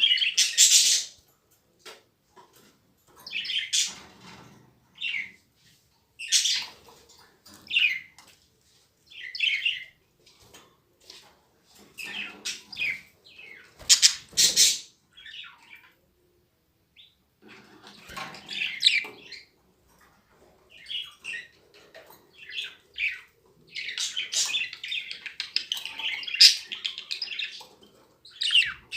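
Young caged birds chirping in short, irregular bursts, with a couple of sharp knocks or wing flaps about halfway through and a thicker run of chirping near the end.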